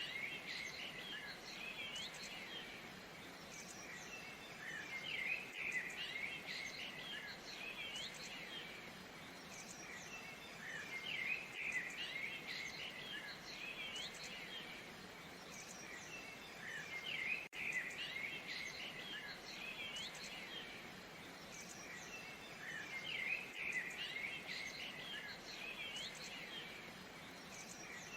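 Many small birds chirping and trilling in a dense chorus over a steady wash of falling water. A brief dropout about seventeen seconds in marks the joint of a looped recording.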